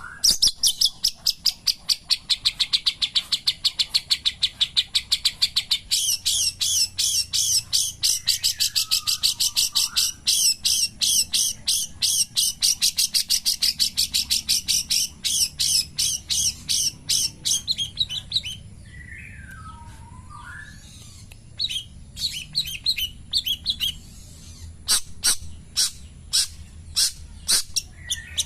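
Long-tailed shrike (cendet) singing: a long run of fast, sharp, evenly repeated high notes, with a few lower falling calls mixed in. About eighteen seconds in the rapid run stops and gives way to sparser single sharp notes.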